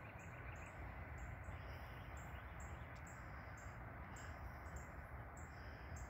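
Birds chirping in the trees: short, high chirps repeating about twice a second, over a low background rumble.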